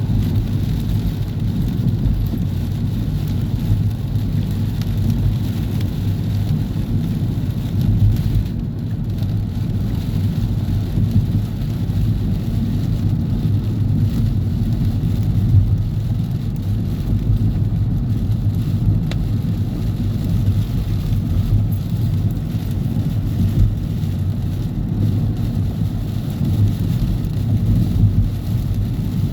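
Thunderstorm noise: a steady low rumbling of rain and wind, with no single sharp thunderclap.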